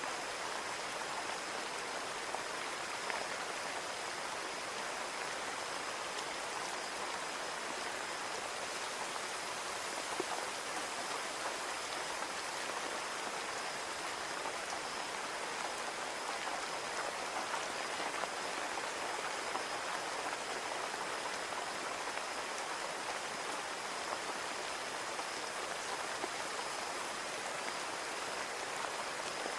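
Steady rain falling on a window: an even hiss of rain with scattered individual drop ticks.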